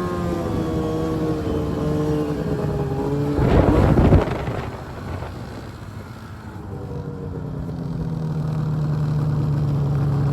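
Arctic Cat M1000 snowmobile's two-stroke twin engine running, its pitch easing down, with a loud rushing burst of noise about three and a half seconds in. The engine then drops off and comes back up to a steady, stronger note near the end.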